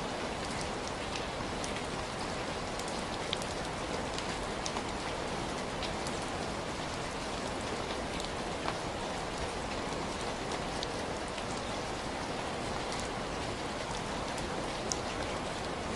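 Heavy rain falling steadily, an even hiss with scattered individual drops ticking on a surface.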